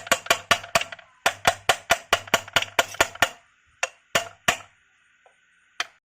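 Rapid hammer blows on metal engine parts, about five a second in two runs, then a few slower single blows.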